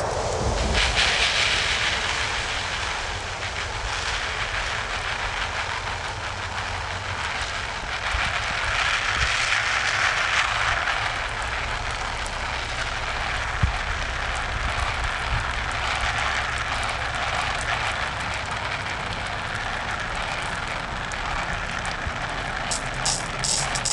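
FOX Labs White Lightning pepper spray discharging its stream from a 90 ml canister: a steady hiss that swells and eases several times, over a low rumble.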